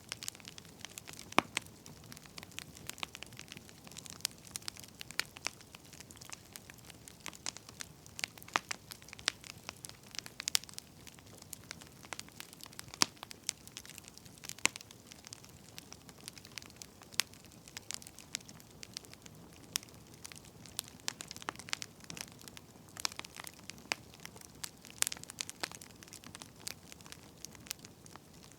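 Wood fire crackling: firewood burning with frequent irregular sharp pops and snaps over a steady low hiss.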